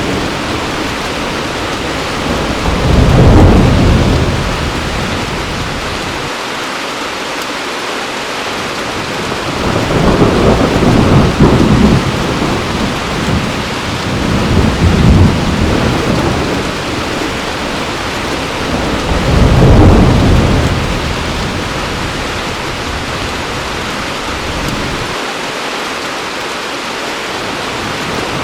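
Heavy rain pouring steadily, with rolls of thunder rumbling in and fading away about four times.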